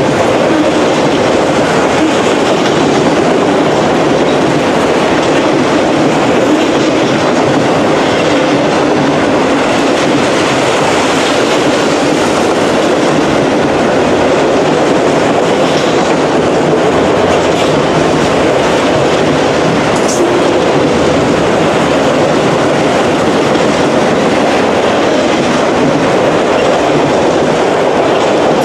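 Autorack freight cars rolling past: the steady, loud noise of steel wheels running on the rails, with a brief high squeak about twenty seconds in.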